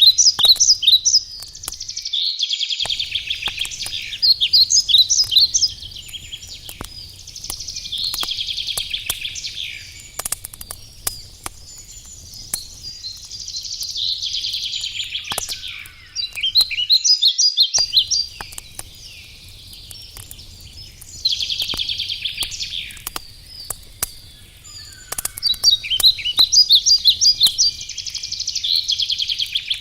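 Forest songbird singing repeated trilled phrases, each about two seconds long, with short pauses between. Under it a wood campfire crackles with scattered sharp pops.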